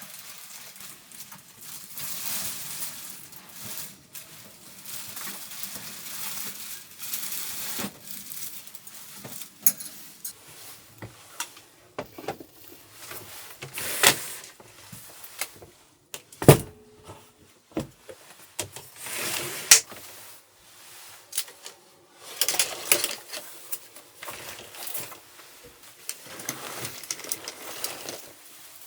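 Small objects being handled at close range: on-and-off rustling with scattered clicks and taps, and one sharp knock about halfway through that rings briefly.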